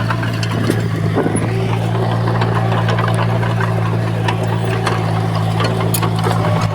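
Heavy earthmoving machine's diesel engine running steadily at an even pitch, with scattered metallic clicks and knocks over it.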